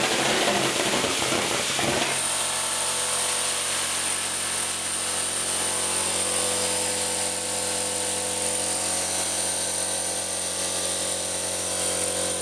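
Home-made aerosol-can rocket engine running: a steady hiss with several held tones. It changes abruptly from a rough, fluctuating sound to a steady one about two seconds in.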